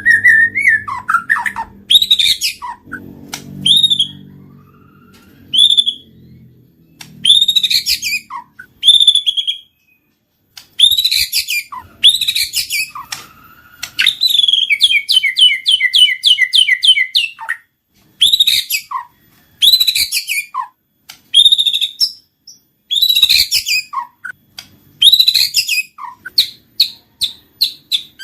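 White-rumped shama singing: loud, varied phrases of sharp sweeping whistles and chips with short pauses between them, and a fast run of about nine repeated notes about halfway through.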